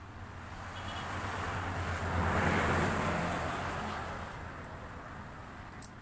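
A motor vehicle passing by: engine and road noise swell to a peak about halfway through and then fade, over a low steady hum.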